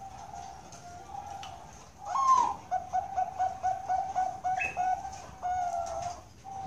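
Zebra dove (perkutut) cooing: after a faint note, a louder higher opening note about two seconds in, then a quick run of about ten short coos at roughly four a second, ending in a longer falling note.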